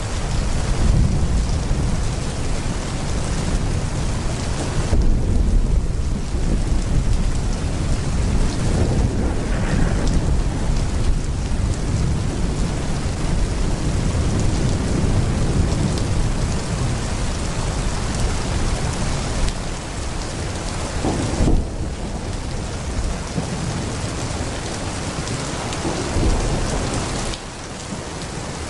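Heavy rain pouring steadily, with deep rolling thunder rumbling under it through most of the stretch. There is one sudden sharp crack a little past two-thirds through, and the rumble fades near the end.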